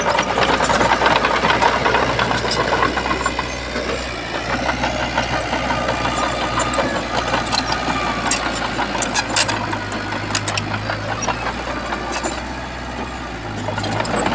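Heavy diesel engine of earthmoving machinery running steadily, with scattered metallic knocks and clatter.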